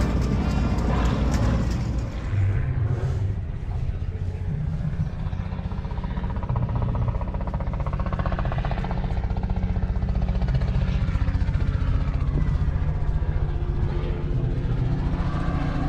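An engine running steadily, with a fast, even firing rhythm.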